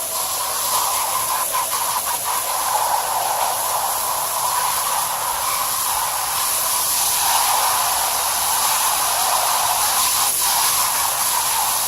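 Garden hose spraying water steadily onto an air-conditioner condenser coil, washing packed cottonwood fluff out of the fins.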